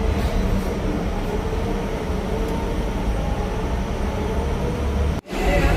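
Hong Kong double-decker tram running: a steady low rumble with a faint hum. It cuts out suddenly for a split second near the end, and a faint high squeal comes in after it.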